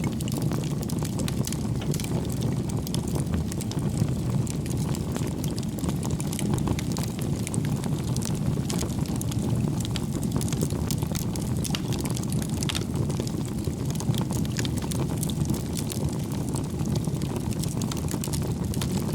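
Wood fire burning: a steady low rush of flames with frequent small crackles and pops from the burning logs.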